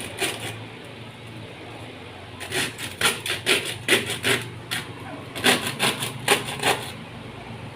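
Hammer striking wood in two quick runs of blows, about three a second, with a short pause between them.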